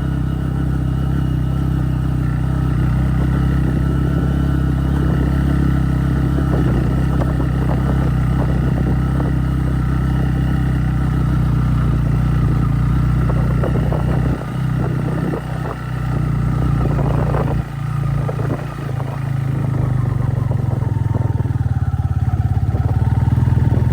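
Motorcycle engine running steadily under load on a rough stone track. The engine eases off briefly twice, about two-thirds of the way through, then picks up again louder near the end.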